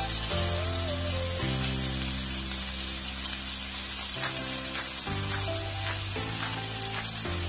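Bacon-wrapped rice balls sizzling as they pan-fry, a steady hiss under background music with changing chords.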